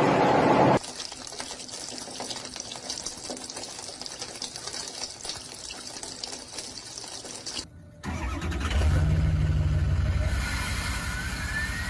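Vehicle engine and road noise across several abrupt cuts. After a quieter stretch comes a louder low engine hum, with a high whine rising in pitch near the end.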